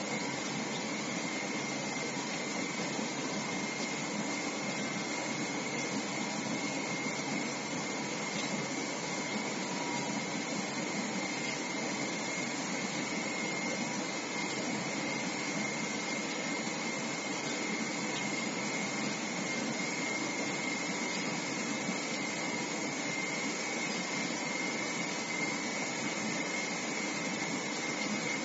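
CNC machine running steadily: a constant hissing rush with a steady high whine over it.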